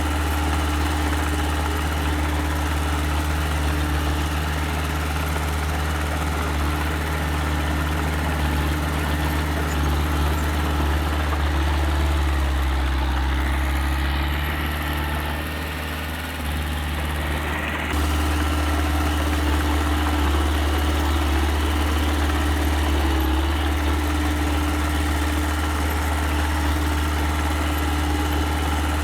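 Engine of a small earthmoving machine running steadily. About halfway through, its pitch and level dip for a few seconds, then it comes back up to full revs.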